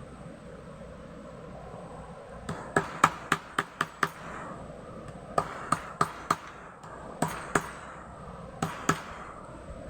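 Sharp clicks or taps in short quick runs: about seven in a row, then four, then two pairs, over a steady low background.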